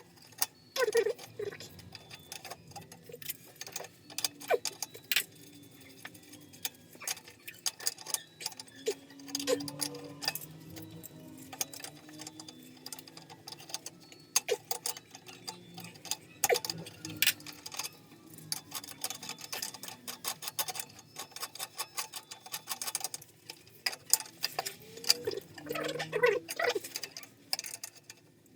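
Irregular clicking, tapping and clinking of hand work on heating pipes and fittings, with no steady rhythm and denser runs of clicks in places.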